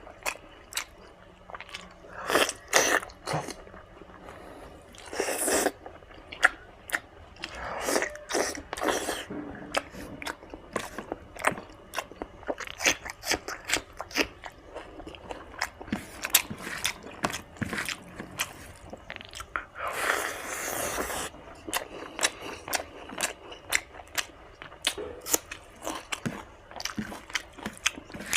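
Close-up chewing and biting of spicy mutton fat with rice and gravy: many wet mouth clicks and smacks, with a longer hissing sound twice, about five seconds in and about twenty seconds in.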